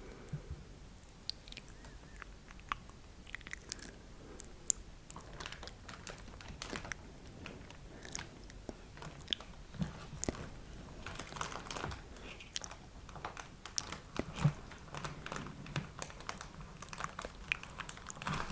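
Close-miked ASMR mouth sounds: many small, irregular wet clicks and smacks, coming thicker in the second half.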